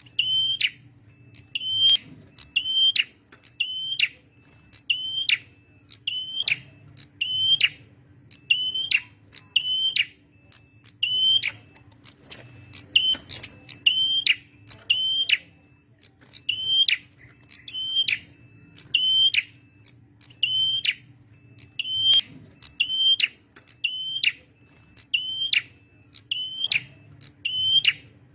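Male prenjak merah calling loudly: a sharp, ringing chip repeated about every two-thirds of a second, in runs broken by brief pauses. A faint steady hum lies underneath.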